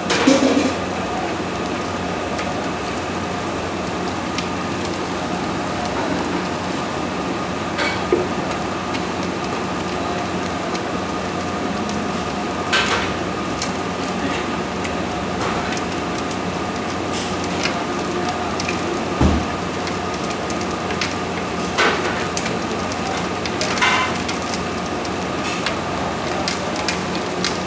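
A 60 kg spiral mixer running steadily as it kneads dough: an even motor hum, with a few short knocks now and then.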